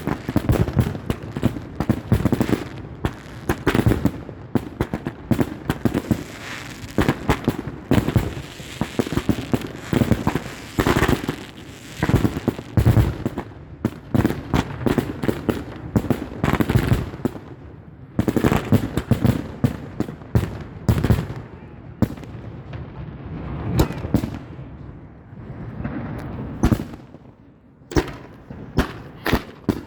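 Fireworks going off in dense volleys: many sharp bangs and crackles in quick succession, thinning out after about twenty seconds into scattered bangs.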